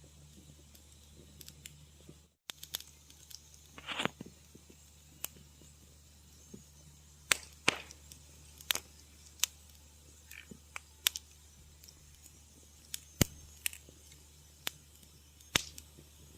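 Wood fire crackling in a fireplace: irregular sharp pops and snaps, several loud, with a short hissing flare about four seconds in. The sound cuts out completely for a split second just after two seconds in.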